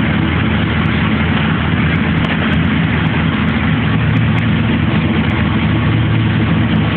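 1985 Pontiac Firebird Trans Am's 305 small-block Chevrolet V8 running steadily at idle.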